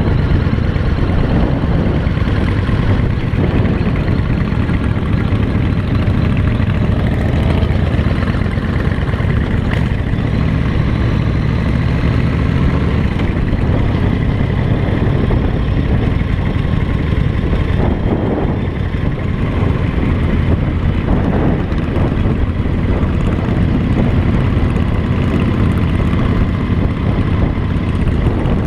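Motorcycle engine running steadily while under way, with a continuous rush of noise.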